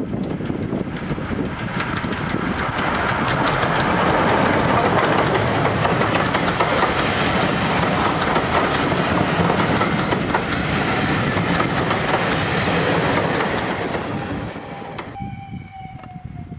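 A steam-hauled passenger train passing close by, its wheels clattering over the rail joints. The noise swells as the coaches go past, then fades about fourteen seconds in. Near the end a steam whistle sounds faintly, one long steady note.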